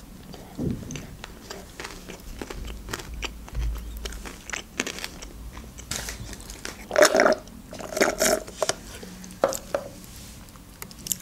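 Close-miked chewing of a mouthful of fried-chicken burger: irregular small clicks and crunches. A few louder ones come about seven and eight seconds in.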